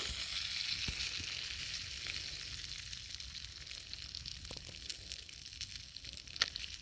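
Oil and popcorn kernels sizzling in a pan over a flame, a steady hiss that slowly fades, with a few sharp clicks near the end as the kernels begin to pop.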